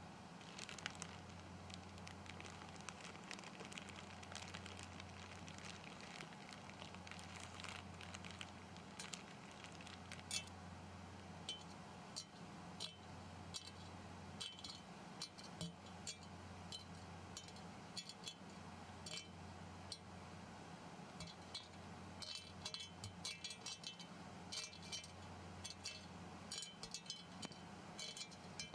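Faint scattered clicks and crinkles over a low steady hum, the clicks coming thicker near the end.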